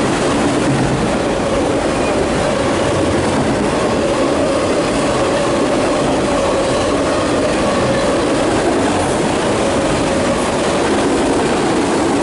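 Empty autorack freight cars of a CSX freight train rolling past at close range: a steady, loud noise of steel wheels on the rails that holds throughout.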